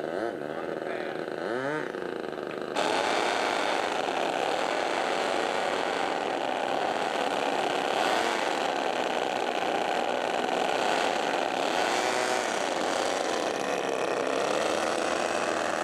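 R/C scale model airplane engine running with a loud, steady buzz that steps up in loudness about three seconds in. It is a troublesome engine that won't keep running.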